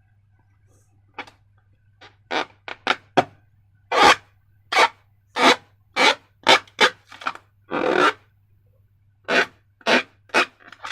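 Slime being squeezed and worked by hand: a run of short rubbing, squishing noises, about two a second, over a faint steady low hum.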